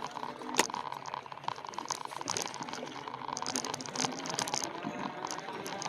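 E-bike tyres crunching over a rough trail surface, with a steady run of small clicks and rattles from the bike and one sharper knock about half a second in.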